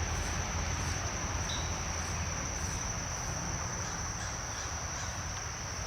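Insects, likely crickets, trilling in one steady high-pitched tone, over a low rumble.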